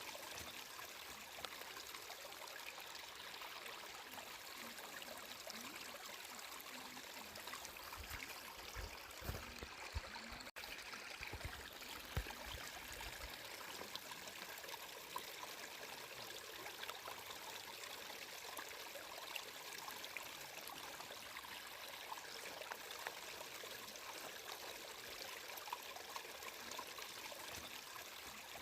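Water flowing steadily, with a few low thumps near the middle.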